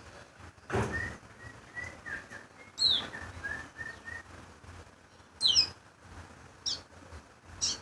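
A small red songbird calling: a run of soft short whistled notes, then sharp high chirps that slur downward, heard four times. A brief thump about a second in.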